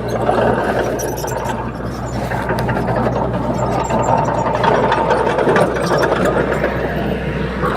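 Heavy diesel engine of earthmoving machinery running steadily, with a low, even hum under a noisy mechanical rattle.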